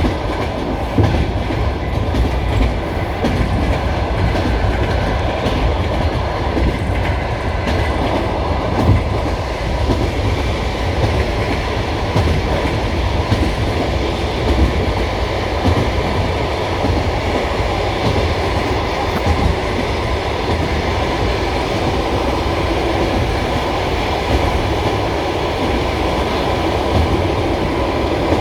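Passenger train carriage rolling along the track, heard from inside the car: a steady rumble of wheels on rails with a clickety-clack over the rail joints.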